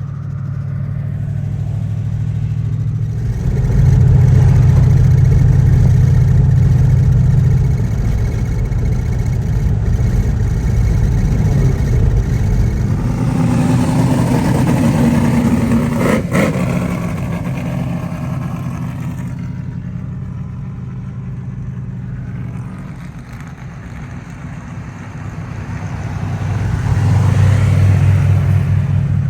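A motor vehicle's engine running steadily, getting louder and softer a few times over the stretch. There is one sharp click about halfway through.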